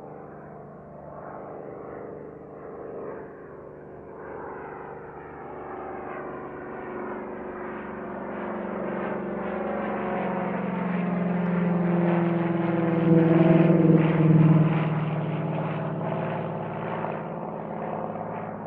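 Fixed-wing airplane passing by: its engine sound builds steadily to a peak about 13 seconds in, the pitch dropping as it goes past, then fades.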